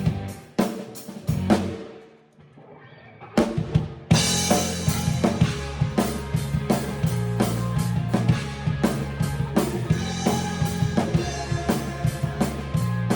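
Band music driven by a drum kit: drum hits, then a short near-silent break about two seconds in. About four seconds in the full band comes back in, with cymbals, kick and snare over a steady low bass line.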